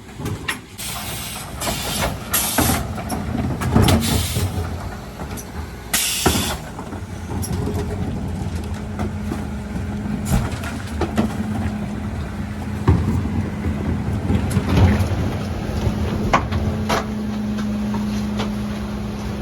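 Mercedes-Benz Econic refuse truck running steadily, with several short loud hisses of air in the first seven seconds and scattered knocks after that.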